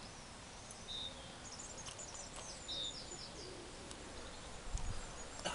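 Small birds singing: a few high chirps and a quick run of short falling notes over a steady outdoor hiss. Near the end there is a low rumble and a couple of sharp clicks.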